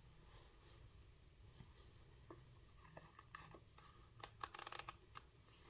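Near silence: room tone with a few faint short clicks and rustles, mostly bunched about three-quarters of the way in.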